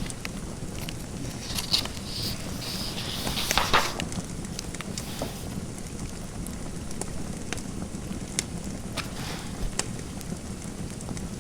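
Wood fire in a fireplace crackling over a steady low rumble, with scattered sharp pops. Between about one and a half and four seconds in there is a short run of scratchy, rustling sounds, loudest just before four seconds.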